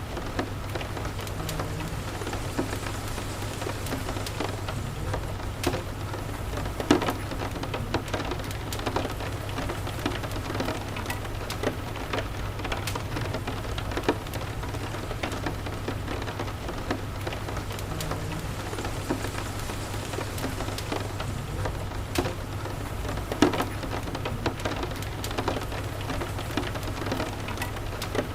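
Steady rain with a low rumble under it and many small crackles and sharp pops, as from a wood fire burning in a fireplace. The louder pops come about 7 seconds in and again near 23 seconds.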